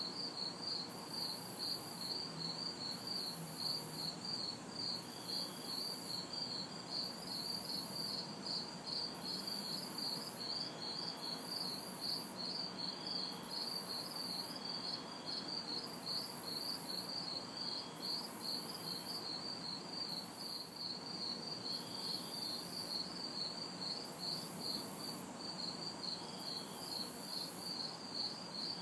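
Night insect chorus of crickets: a fast, even pulsing trill, with a higher insect buzz switching on and off about once a second. Underneath is a low, steady hum of distant city traffic.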